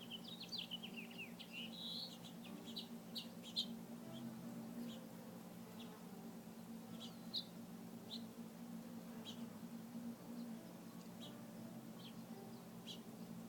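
Small birds chirping: a quick falling twitter in the first second or so, then scattered short single chirps, over a steady low hum.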